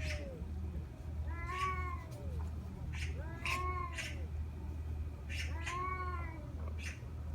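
A cat meowing three times, about two seconds apart; each call is a drawn-out meow that rises and then falls in pitch. A steady low hum runs underneath.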